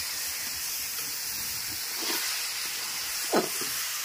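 Spiced papaya curry sizzling and steaming in a large wok (kadhai), a steady hiss. A spatula clinks against the pan once, sharply, a little after three seconds in.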